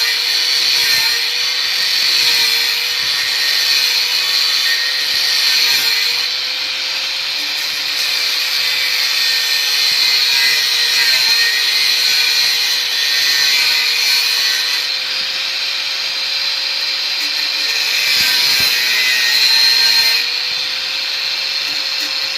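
Bosch GWS 6-100 4-inch angle grinder with an abrasive cut-off disc cutting steel: a steady motor whine over a loud grinding hiss, the pitch sagging briefly a few times as the disc bites into the metal.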